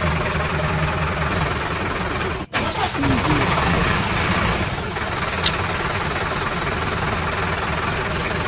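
An engine running steadily, broken by a sudden short gap about two and a half seconds in.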